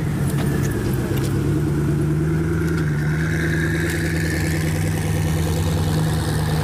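Koenigsegg Agera's twin-turbo V8 running steadily at low revs as the car rolls away slowly, with a few light clicks in the first second or so.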